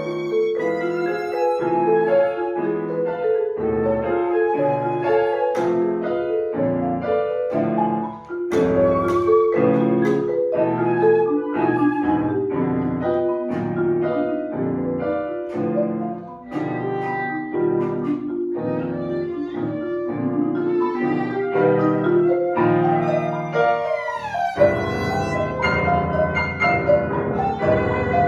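Live chamber music for flute, violin, marimba and piano: a contemporary piece of dense, short repeated chords and struck notes, with a falling glide near the end that gives way to held tones.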